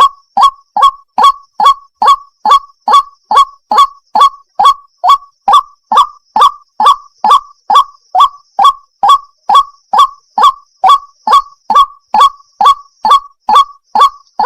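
White-breasted waterhen (ruak-ruak) calling: a fast, even series of short identical honking notes, a little over two a second.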